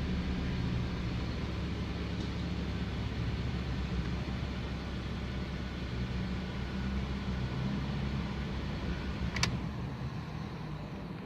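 2001 Mazda 626 engine idling steadily while it warms up on fresh oil. A single sharp click comes about nine seconds in.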